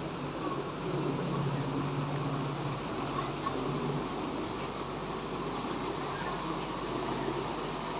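Canal boat engine running steadily at low speed, a low hum over a broad rushing noise.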